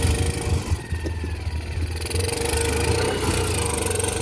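Small engine of a mini rock crawler running steadily under load as it creeps forward over rocks, its note dipping briefly about a second in and then picking up again.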